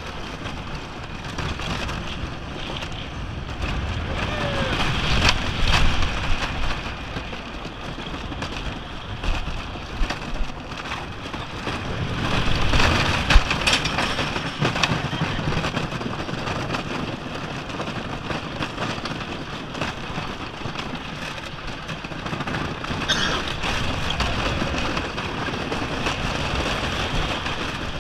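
Wooden roller coaster train running along its track: a steady rumble and rushing wind noise that swells twice, with a few sharp clacks.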